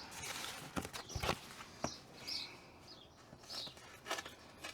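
Light knocks and handling noises from sound-deadening insulation being fitted into the car, with a sharper knock about a second in. Short bird chirps sound in the background.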